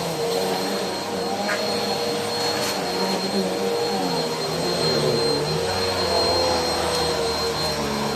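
Bissell PowerForce Helix Turbo upright vacuum cleaner running steadily, a motor hum with a thin high whine, its pitch wavering slightly as the vacuum is worked over the floor.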